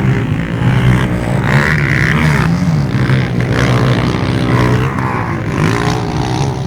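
Motocross motorcycle engines running and revving, their pitch rising and falling as they go.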